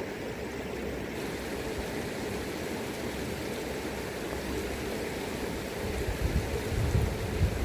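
River current rushing steadily. Wind buffets the microphone in low gusts over the last two seconds or so.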